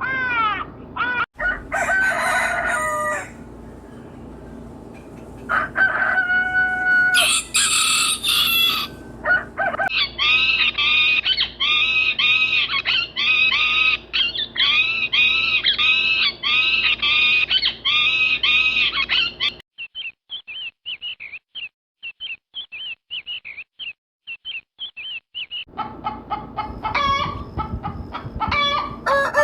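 Chickens: a rooster crowing and hens clucking in a run of evenly repeated calls, then several seconds of softer, short high chirps, with more calls near the end.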